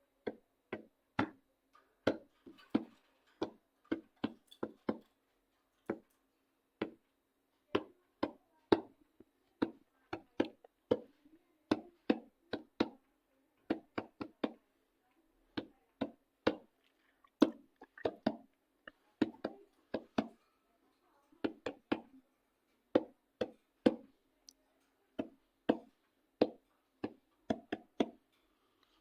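Rhythmic knocking percussion: short, dry, sharp strokes about two a second, some in quick pairs, over a faint steady low hum.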